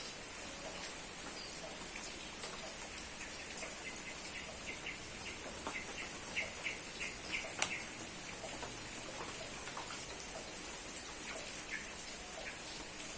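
Steady rain falling, a constant hiss with scattered drops ticking. In the middle a bird calls a quick run of short repeated chirps, about four a second, then stops.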